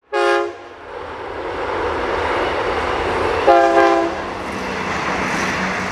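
Train horn sounding two short blasts, one at the start and another about three and a half seconds in, over the steady rushing rumble of a passing train.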